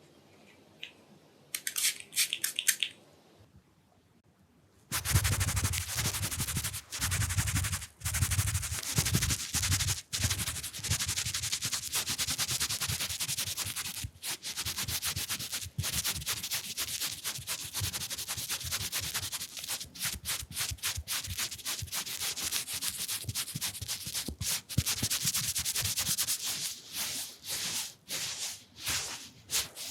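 Fast, close-miked rubbing and scratching, like wiping or scrubbing right at the microphone, during an ASMR cleaning sequence. A few brief clicks come near the start, and the steady rubbing starts about five seconds in.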